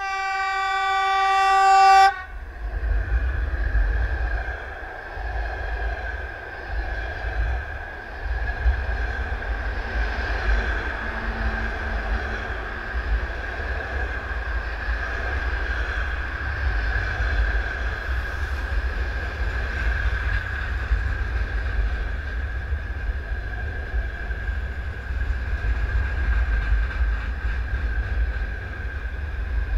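A locomotive horn sounds one long blast of about two seconds, growing louder, then stops abruptly. Two trains then pass at once on neighbouring tracks, a passenger train of coaches and a freight train of gondolas and tank cars, with a steady rumble of wheels on rails and a steady high tone above it.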